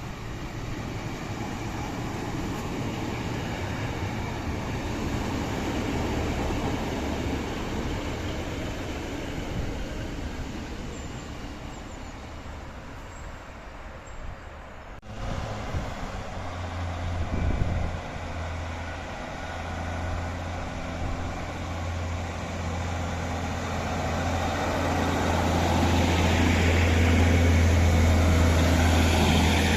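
Diesel trains: a rolling rumble of a train running by, then, after a cut about halfway, a diesel engine's steady low drone that grows louder as a train approaches.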